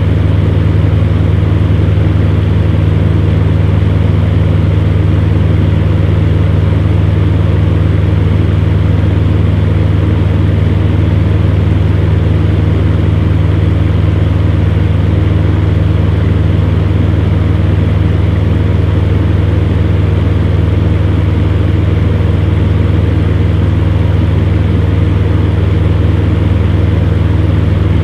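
Electric fan heater running steadily: a strong low motor hum under an even rush of blown air, unchanging throughout.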